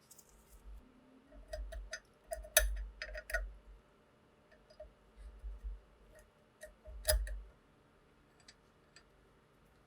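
Irregular sharp clicks and light knocks from handling the rifle's parts, with louder clicks about two and a half and seven seconds in.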